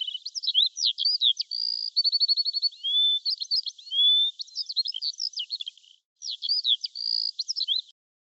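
A songbird singing a fast, varied song of chirps, downward-sweeping whistles and rapid trills, broken briefly about six seconds in and stopping just before the end.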